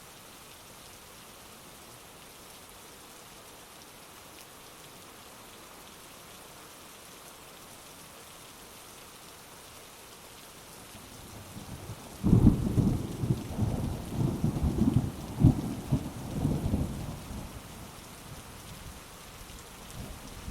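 Steady heavy rain. About twelve seconds in, a sudden loud clap of thunder breaks and rumbles on in several peals for about five seconds, then dies away under the rain.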